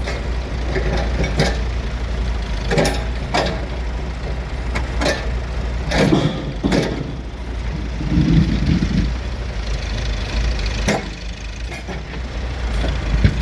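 Tractor and backhoe engines running steadily while they push hay bales into a trailer, with sharp knocks every second or so.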